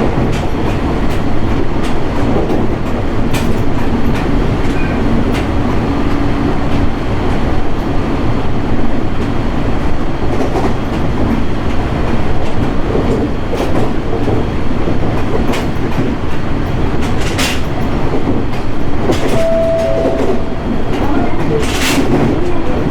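JR East 701 series 1000-subseries electric train running steadily: a continuous low rumble of wheels on rail, with occasional sharp clicks.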